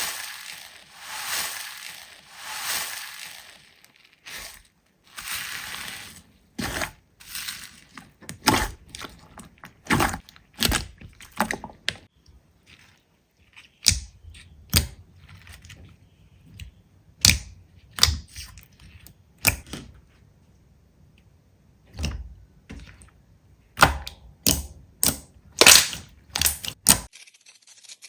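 Slime being squished and pressed by hand: a few soft hissy swells, then a long run of sharp, irregular pops and clicks.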